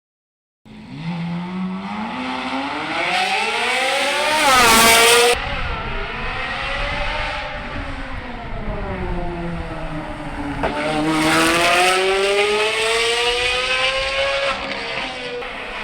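Sports car engine driven hard, revving up and falling back in pitch several times as it accelerates and lifts. A loud, harsh peak about four to five seconds in cuts off sharply, and it then climbs again and eases off near the end.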